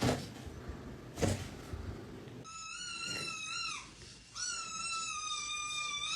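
Two sharp knocks, then a cat giving two long, high, drawn-out meows, each dipping in pitch at the end.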